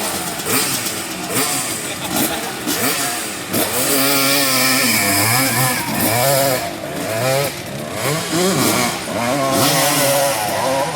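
Dirt bike engine in the 200–250cc class revving hard. After a noisy, clattering start, the pitch climbs and drops again and again as the throttle is worked on the climb.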